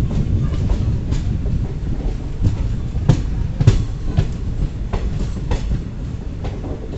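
Passenger train running on the track, a continuous low rumble of coach wheels on rails with uneven sharp clacks as the wheels cross rail joints, the loudest about three to four seconds in.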